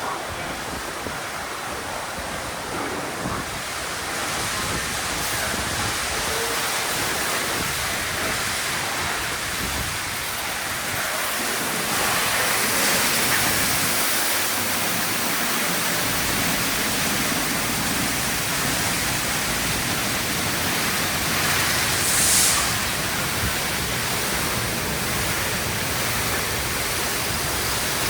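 Water jets spraying in a Sonny's tunnel car wash: a steady hiss of spray and running water. It grows louder about four seconds in and again about twelve seconds in, with a brief louder rush of spray about 22 seconds in.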